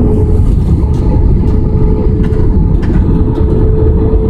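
Loud, steady low rumble of an Airbus A320's cabin noise, with a constant droning tone and scattered light rattles.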